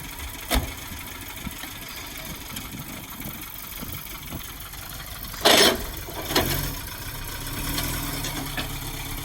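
Car engine running, with a sharp click about half a second in and a loud thump about five and a half seconds in. After the thump the low engine rumble is louder.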